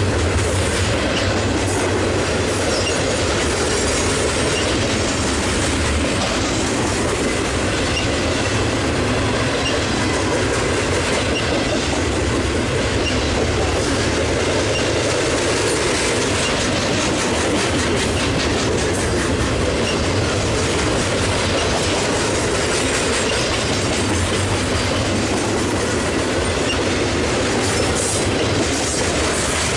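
Double-stack container freight cars rolling past at close range: a steady, loud rumble of steel wheels on rail with repeated clacks running through it.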